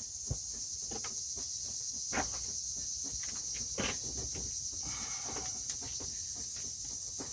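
Steady high-pitched chirring of crickets, with scattered light clicks and knocks of hands rummaging in an engine bay for a dropped washer.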